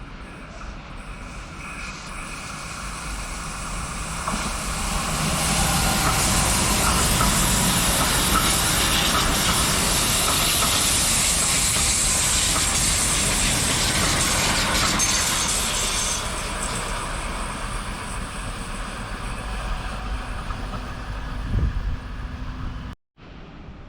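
Train passing by on the tracks. The noise builds up, holds at its loudest for about ten seconds, then fades away, and it cuts off abruptly near the end.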